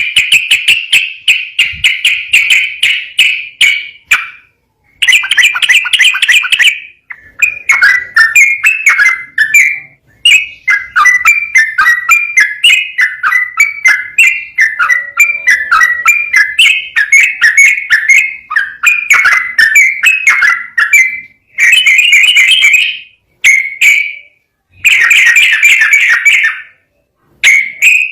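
Yellow-vented bulbul (trucukan) singing in long, fast runs of bubbling, warbled notes, with several brief pauses between phrases.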